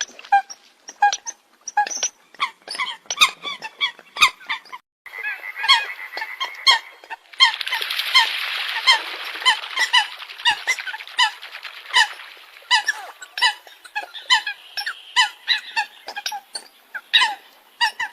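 Eurasian coots calling: a fast, unbroken series of short, sharp, squeaky calls, several birds overlapping. There is a brief cut-out about five seconds in.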